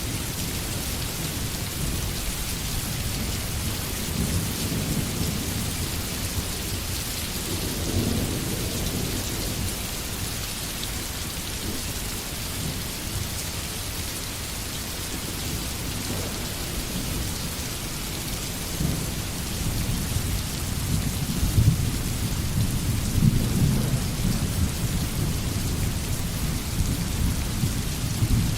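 Steady heavy rain falling, with low rolls of distant thunder swelling several times, strongest in the last third.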